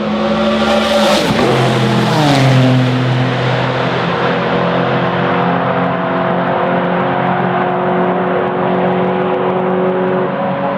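Historic racing car engine passing close at speed, its pitch dropping sharply as it goes by about two seconds in, then holding a steady note as it carries on.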